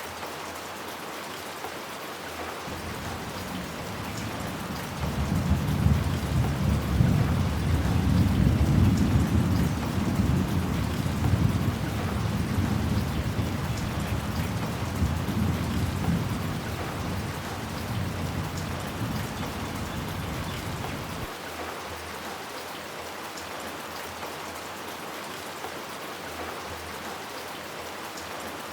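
Steady heavy rain falling, with a long rolling rumble of thunder. The thunder builds a few seconds in, is loudest for several seconds, then slowly dies away about two-thirds of the way through.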